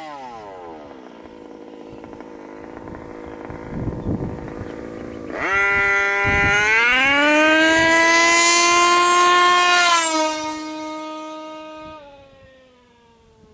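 Reed 29.5cc two-stroke engine in an HPI Baja 5B RC car: the engine note falls as it slows, runs low for a few seconds, then revs up sharply about five seconds in and holds high revs for about four seconds before dropping off and fading.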